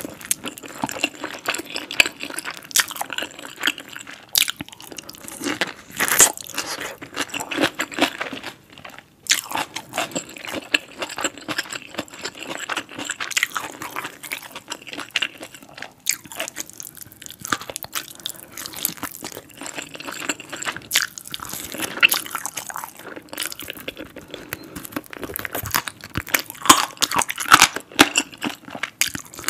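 Close-miked eating of spicy fried chicken dipped in cheese sauce: bites and chewing with many irregular crisp crunches and sharp clicks.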